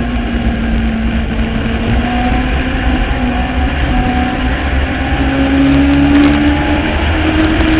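Legends race car engine running at racing speed. Its pitch dips and climbs gently over a few seconds as the revs change through the turns, over a steady low rumble.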